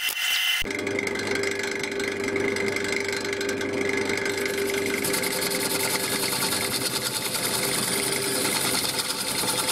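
Wood lathe running steadily at low speed: a motor hum with a fast, even beat and no tool cutting. It comes in abruptly about a second in, after a brief scraping of a tool on the spinning wood.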